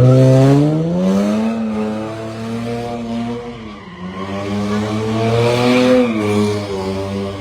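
Car engine being revved: the pitch climbs about a second in and holds, drops away near four seconds, then rises to a peak about six seconds in and falls back.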